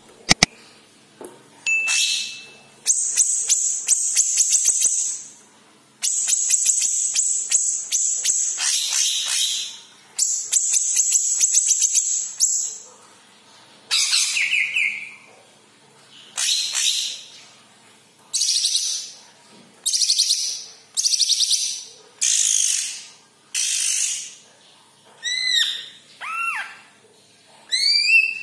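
Cucak ijo (green leafbird) singing: repeated bursts of fast, high chattering trills, each a second or a few seconds long with short pauses between, and a few quick arched whistles near the end.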